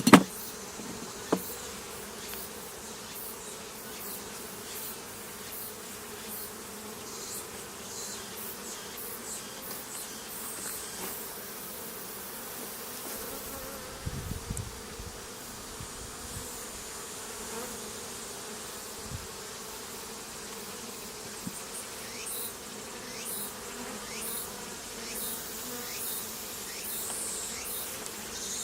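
Honeybees buzzing in a steady hum, with a sharp knock at the very start and a few soft thumps about halfway through.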